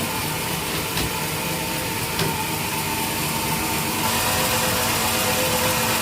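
Sawmill machinery running steadily, a motor hum with a few light knocks, growing a little louder about two-thirds of the way through.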